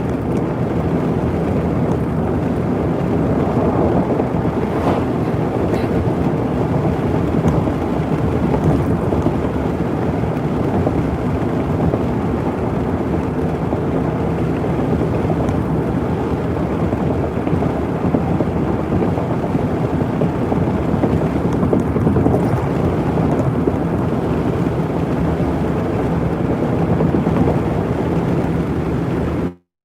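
Steady vehicle noise: an engine and road droning with wind rushing against the microphone. The sound cuts out abruptly near the end.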